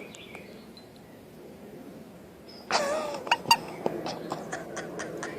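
A parrot gives a short throaty call about two and a half seconds in, followed by a run of quick clicks and smacks from its beak against the shirt.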